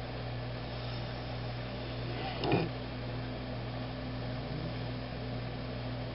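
A sleeping Labrador retriever snoring: one short snore about halfway through, over a steady low background hum.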